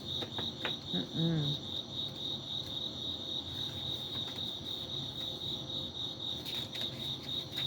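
A cricket chirping steadily in a high, evenly pulsed trill, with a few faint clicks.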